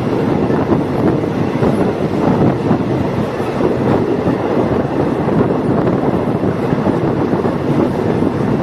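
Diesel multiple unit train running along the track: a loud, steady rumble of wheels on rails and the running gear.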